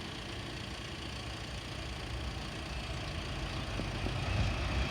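Class 66 diesel freight locomotive approaching, the low drone of its two-stroke diesel engine growing steadily louder as it nears.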